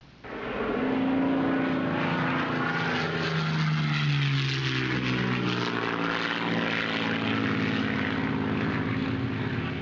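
Battery-powered RC Blizzard model's electric motor and propeller in flight, a steady whine whose pitch drops between about three and five seconds in, as when the model passes by.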